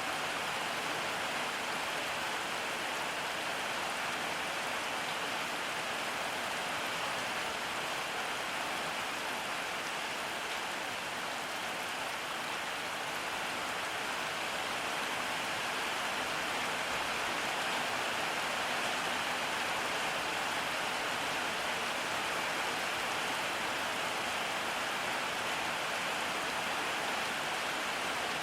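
Steady rain falling and pattering on surfaces, an even hiss that holds at the same level throughout.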